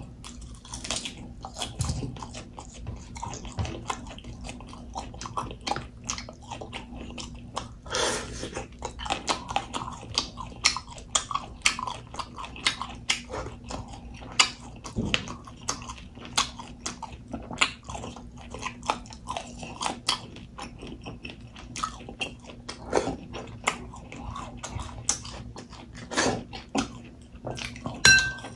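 Close-miked chewing and lip-smacking of boiled pork, many small wet clicks. Near the end a metal spoon clinks once against a glass bowl, the loudest sound, ringing briefly.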